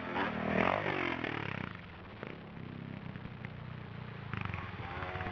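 Suzuki DR650's single-cylinder four-stroke engine revving hard with the pitch swinging up and down, then dropping back to a lower, steadier run, and revving up again near the end.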